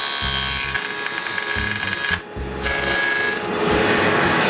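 Woodworking power tool running and cutting a glass rabbet into a wooden window-frame stile, a steady motor whine with cutting noise. The sound drops out briefly about two seconds in, then resumes.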